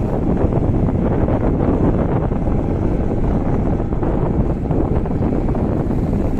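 Wind buffeting the microphone on a moving boat, over a steady low rumble from the boat.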